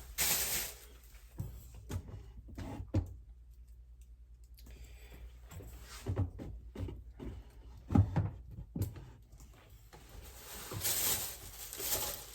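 Shopping being unpacked by hand: rustling and a series of light knocks and thumps as items are taken out and set down, the loudest about eight seconds in.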